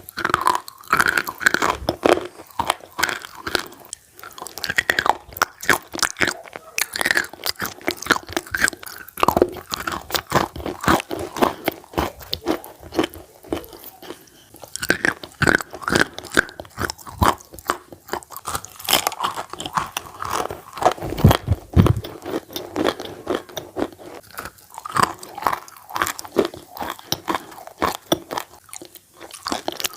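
Chalk being bitten and chewed, close up: a continuous run of dense, irregular crunches and crackles.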